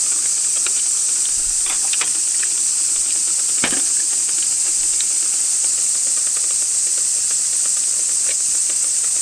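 Dense chorus of cicadas, an unbroken high-pitched drone at an even level, with a few faint clicks over it.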